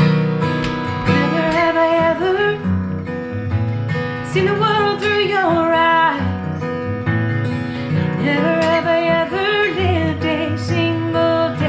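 Acoustic guitar playing an instrumental passage, with a melody that glides and wavers between notes over the guitar from about a second and a half in.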